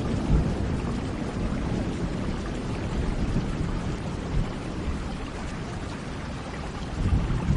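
Steady rain with a low rumble of thunder that slowly fades, swelling again briefly near the end.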